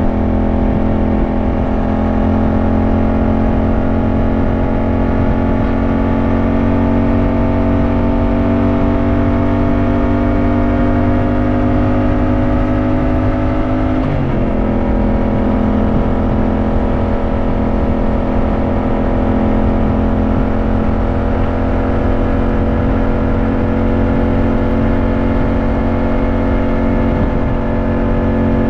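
Yamaha motorcycle engine running under way, its pitch climbing slowly as it accelerates, then dropping suddenly about halfway through at a gear change up and holding fairly steady afterwards, over a constant low rumble of wind and road noise.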